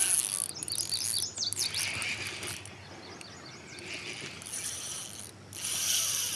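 A songbird singing short runs of quick repeated chirps, over louder bursts of high, hissing noise, the strongest at the start and again near the end.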